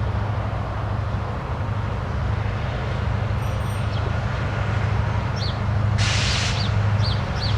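EMD SD70ACe diesel-electric locomotive's two-stroke engine running with a steady low drone as a loaded coal train approaches, over constant rail noise. A short burst of hiss comes about six seconds in, and a few short high chirps sound near the end.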